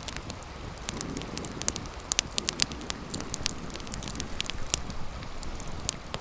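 Wood campfire crackling, with many irregular sharp pops and snaps over a low steady rush.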